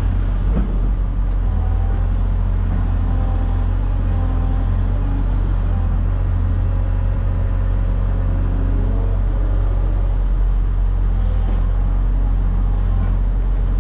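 A heavy engine running steadily with a deep, low rumble, with a brief knock about half a second in.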